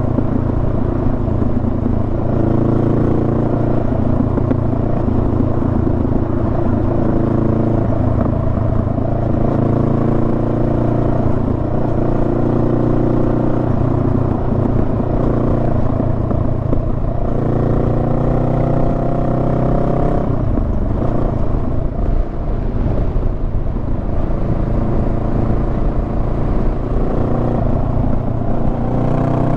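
Honda Rebel 500's parallel-twin engine running under way, its revs climbing slowly in several stretches of a few seconds each.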